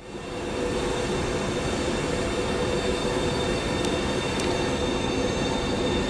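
Trenitalia ETR 600 electric high-speed train moving along the station platform: a steady rumble of wheels on rail with several steady whining tones over it. The sound fades up at the start.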